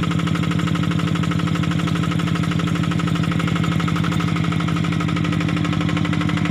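Yanmar rotary tractor's diesel engine running steadily with a rapid, even chugging pulse.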